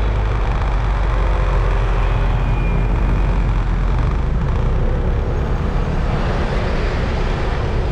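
Riding a scooter through city traffic: a steady, heavy wind rumble on the microphone over the scooter's engine and the surrounding road noise.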